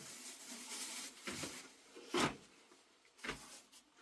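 A few dull knocks of objects being handled, the loudest a little past halfway.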